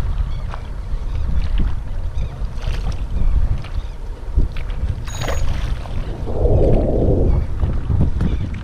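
Wind rumbling on the microphone, with scattered small clicks and knocks and a short burst of noise about six and a half seconds in.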